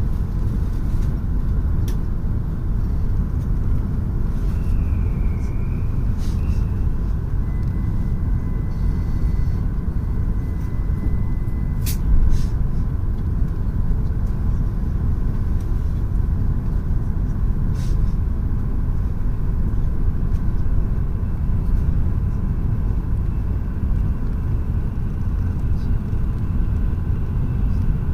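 Tohoku Shinkansen train running at speed, heard from inside the passenger car: a steady low rumble with a faint steady whine and a few light clicks.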